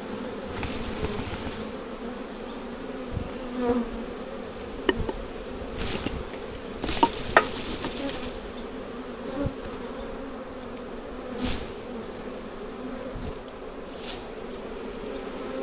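Honey bee swarm buzzing in a steady hum, with a few short clicks and knocks around the middle.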